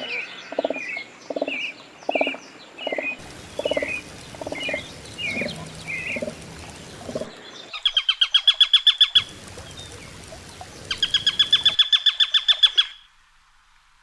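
Chickens clucking in an even, repeated rhythm while small birds chirp over them, then a small songbird's fast, high trill, twice.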